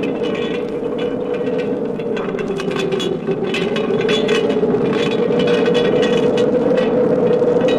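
Howling wind sound effect: a steady, slowly wavering whistle-like moan, with crackling clicks throughout.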